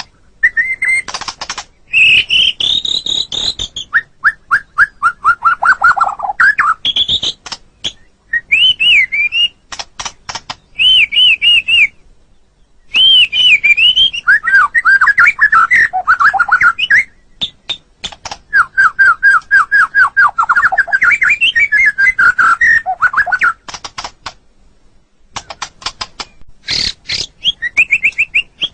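White-rumped shama (murai batu) singing a long, varied song of loud whistled phrases, fast runs of repeated notes and sharp clicking notes, broken by two short pauses.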